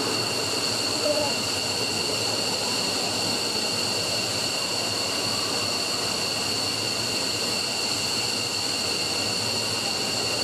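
F-15's Pratt & Whitney F100 turbofan engine running steadily in a ground run: a steady rush of exhaust with several high, unchanging whining tones from the turbine.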